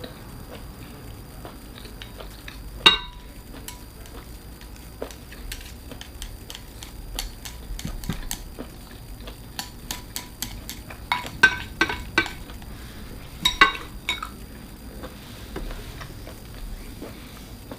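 Eating at a table: scattered sharp clicks and clinks of utensils and clam shells against dishes. There is one loud clink about three seconds in, and quick runs of clinks about eleven and fourteen seconds in.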